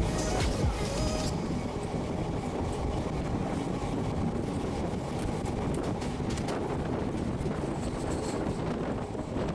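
Passenger train running along the track, heard from on board: a steady rumble of wheels on rails with faint clicks from the rail joints.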